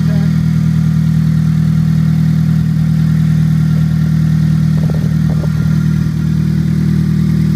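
2003 Honda Civic EX's 1.7-litre SOHC VTEC four-cylinder engine idling steadily. The muffler has been ripped off, which makes it a little throaty.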